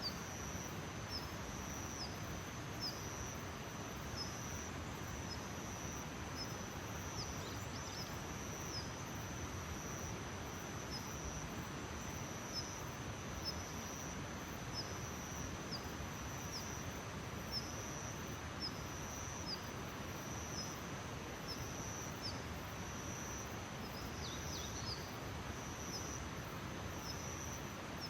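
Outdoor nature ambience: a steady high insect trill, like crickets, with a short high chirp repeating about once a second over an even background hiss. There is a brief flurry of chirps near the end.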